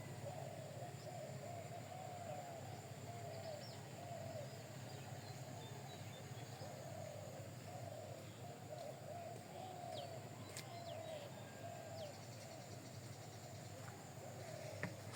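Birds calling continuously, a soft chatter of short repeated calls with a few high chirps, over a steady low hum.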